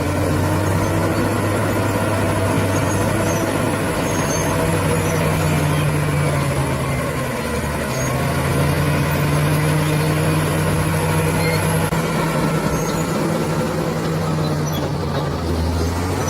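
Bulldozer diesel engine running steadily under changing load. Its note rises a few seconds in, dips briefly about halfway, rises again, then eases off near the end.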